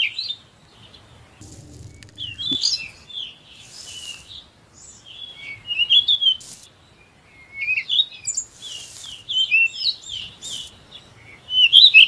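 Small birds chirping, quick high calls repeated in clusters.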